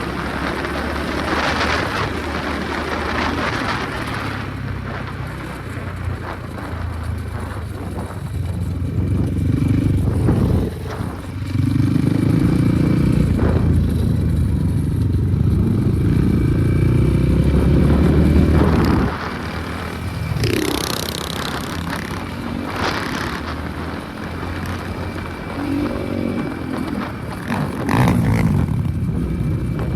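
Enduro motorcycle engines running and revving, louder for several seconds around the middle, then dropping back.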